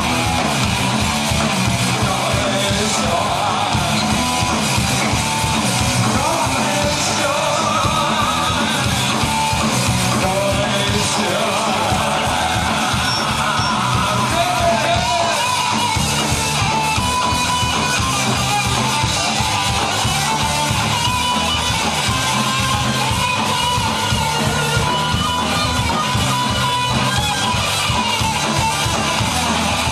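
Live punk rock band playing loud, with electric guitar at the front of a full band.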